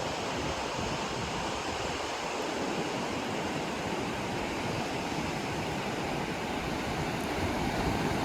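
Steady rush of ocean surf breaking on the shore.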